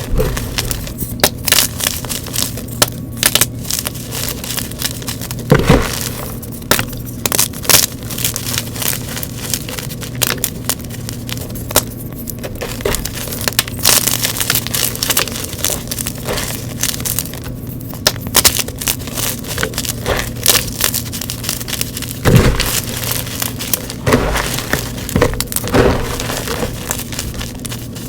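Gym chalk being crushed and crumbled, a continuous run of crisp crunches and crackles with sharper cracks now and then, over a steady low hum.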